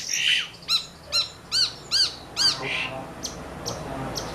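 Long-tailed shrike (cendet) calling. A few harsh, scratchy notes are followed by three evenly spaced arched, ringing notes about half a second apart, then several short, sharp chips.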